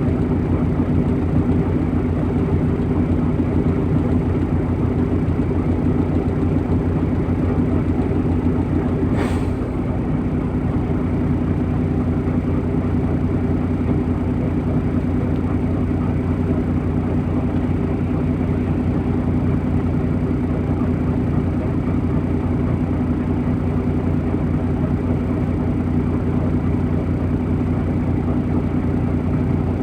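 MAZ-103.469 city bus engine running steadily, heard during the ride. A short click comes about nine seconds in, and the sound drops slightly just after it.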